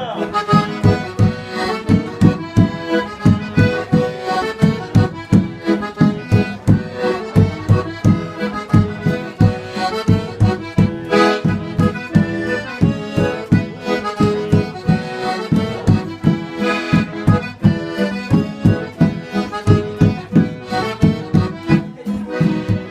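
Accordion-led forró music with a steady, driving beat.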